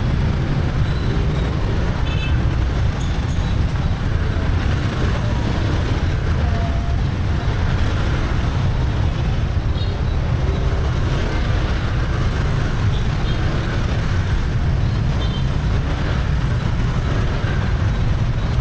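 Busy street traffic heard from a moving motorbike: a steady low rumble of engines and road noise that does not let up.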